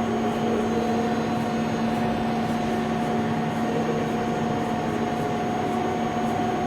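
Large CNC vertical turret lathe running: a steady machine hum with two strong held tones, one low and one mid-pitched, over a rush of noise.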